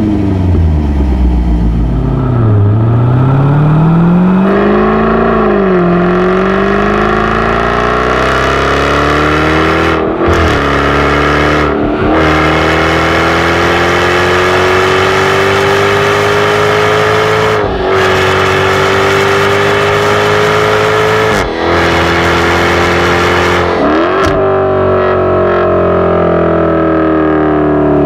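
Jaguar F-Type's supercharged 5.0-litre V8 accelerating, its note climbing in long pulls broken by several brief sharp cuts, then falling away near the end with quick throttle blips.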